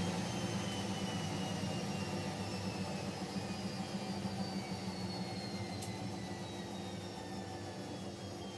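Siemens Siwamat Plus 574 front-loading washing machine during an intermediate spin, its drum coasting down: the motor's whine falls slowly and steadily in pitch while the running noise fades.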